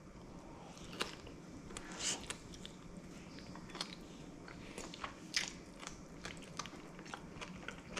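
Someone chewing a mouthful of stir-fried lobster meat, which he calls very chewy: irregular small clicks and smacks of the mouth.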